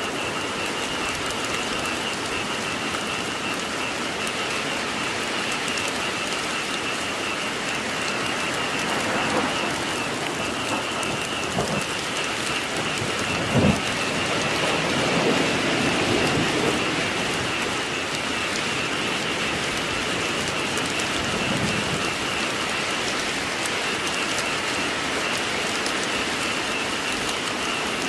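Steady rain falling and pattering on surfaces, with a constant high-pitched band running underneath. About halfway through there is one sharp knock, the loudest sound, followed by a brief low swell.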